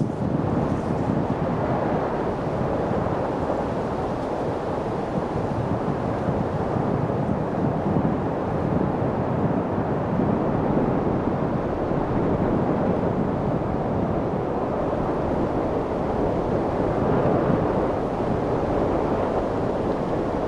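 Steady wind, an even rushing noise without tones or clicks that swells and eases only gently.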